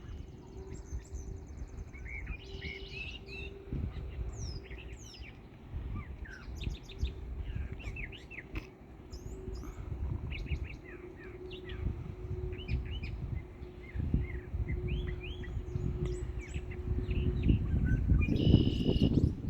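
Songbirds singing, more than one bird: many quick chirps and short slurred notes, with a buzzy note near the end, over a low rumble and a faint steady hum.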